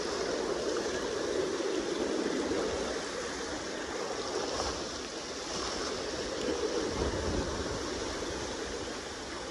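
Kenai River current rushing steadily past the bank, with some low rumble from wind on the microphone a few seconds before the end.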